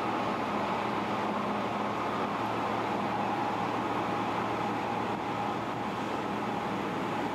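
Interior noise of an Osaka Metro 400 Series commuter train car under way: a steady rumble with a faint steady whine.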